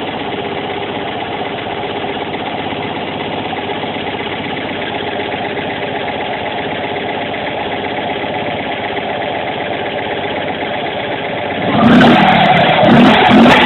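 1969 Fiat 500L's 800cc air-cooled twin-cylinder engine with a Weber 30 DGF carburettor, idling steadily. Near the end the sound jumps sharply louder and begins to pulse.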